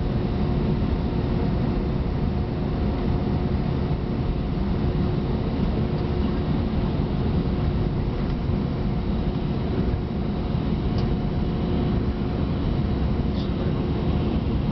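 Steady cabin noise inside an Airbus A319 taxiing on the ground: a low rumble with a constant hum from the engines at idle and the cabin air system.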